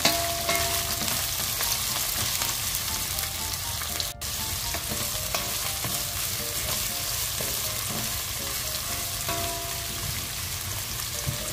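Sliced onion and garlic sizzling in hot oil in a small nonstick pot while being stirred with a wooden utensil: the sautéing stage, cooking them until they brown.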